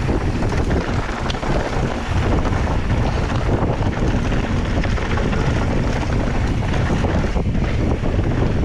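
Wind buffeting the microphone: a loud, unsteady rush of noise, heaviest in the deep low end.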